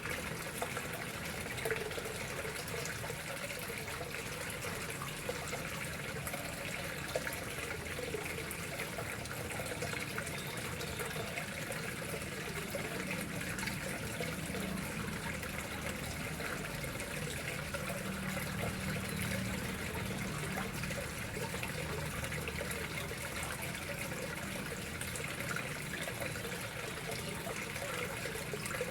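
Water flowing and trickling steadily into a koi pond.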